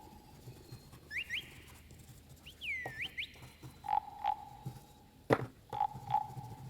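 Animal calls: frog-like double croaks and short rising whistled chirps, repeating every couple of seconds, with a sharp knock a little after five seconds in.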